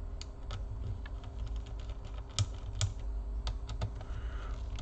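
Irregular small sharp clicks and ticks of a screwdriver loosening the small screws inside a laptop, several a second, over a steady low hum.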